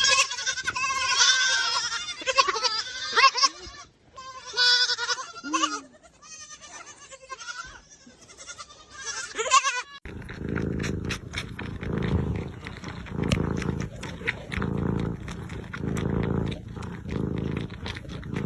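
An animal's repeated wavering, high-pitched calls. About ten seconds in they give way abruptly to a different sound: a noisy rumble that swells in regular pulses a little over a second apart, with scattered clicks.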